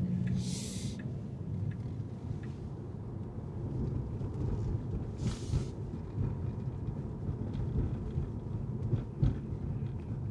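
Car driving on city streets: a steady low road and engine rumble, with two brief hissing swishes, one just after the start and another about five seconds in.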